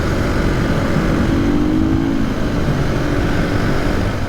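KTM 500 EXC dirt bike's single-cylinder four-stroke engine running under way, its pitch rising a little and easing back around the middle.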